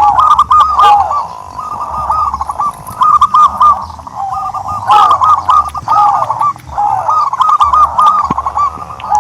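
Turtledoves cooing: many short arched notes, overlapping and repeating in quick runs.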